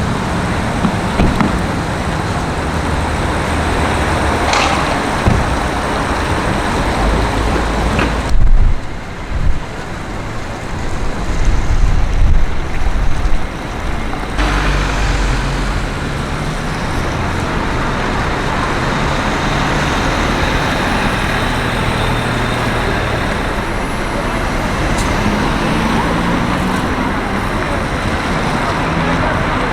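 Street traffic: cars and other vehicles running and passing steadily. About eight seconds in, a louder low rumble takes over for several seconds before the steady traffic sound returns.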